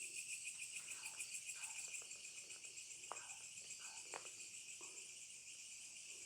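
Night insects, crickets, trilling steadily and faintly in a high, finely pulsing chorus, with a few faint clicks about three and four seconds in.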